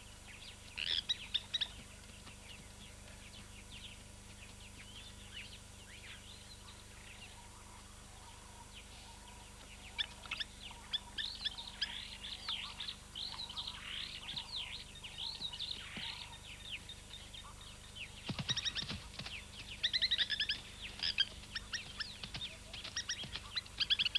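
Spur-winged plover giving sharp, rapid, repeated alarm calls in bursts. There is a quieter stretch from about two to ten seconds in, then dense runs of calls to the end. A brief low thump comes about eighteen seconds in.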